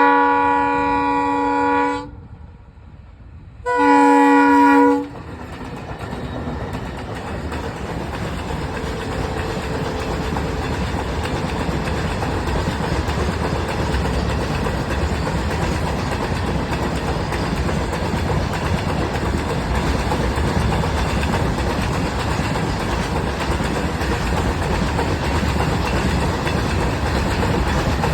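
A multi-tone diesel locomotive horn sounds twice, a longer blast and then a shorter one. Then a freight train hauled by a pair of EMD diesel locomotives runs at speed, its engine rumble and wheel clatter on the rails growing louder over the first several seconds and then holding steady.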